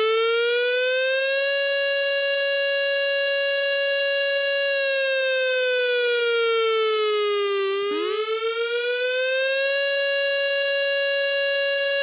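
South Korean civil-defence siren sounding the air-raid warning: one continuous wailing tone that rises, holds, sags slowly to its lowest about seven and a half seconds in, then climbs and holds again.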